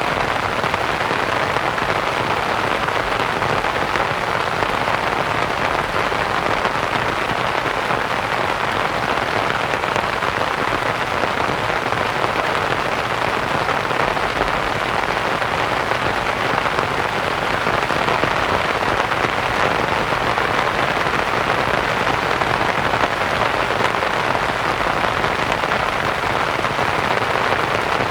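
Steady rain falling on a canvas tent, a dense even patter mixed with soft white noise.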